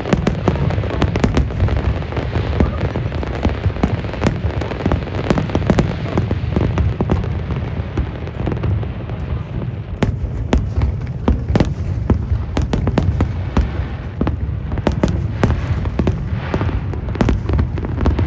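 Aerial fireworks going off in quick succession: constant low rumbling booms with many sharp cracks and pops layered over them.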